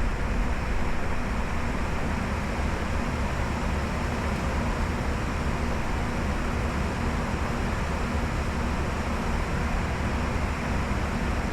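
Steady in-flight cockpit noise of a Bombardier Challenger 605 business jet: an even rush of air with a deep hum underneath, unchanging throughout.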